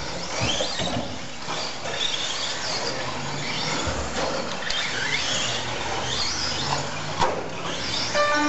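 Several RC stadium trucks racing, their motors whining up and down in pitch again and again as they speed up and slow down around the track.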